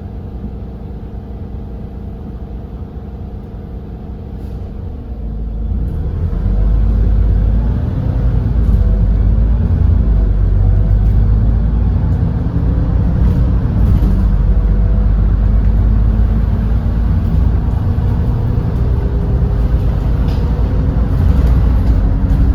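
Edison Motors Smart 110G city bus's GX12P natural-gas engine idling steadily, then from about five seconds in getting louder as the bus pulls away and accelerates, its pitch rising and dropping back several times as the ZF automatic transmission shifts.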